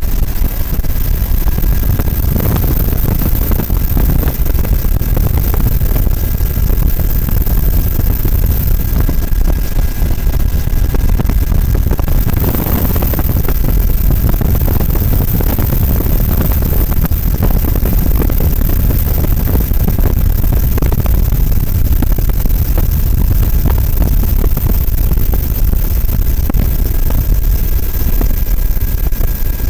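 Steady, loud low rumble of a running vehicle engine.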